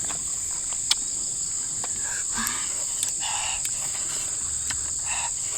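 Steady high-pitched chorus of insects, such as crickets or cicadas, with a few sharp clicks.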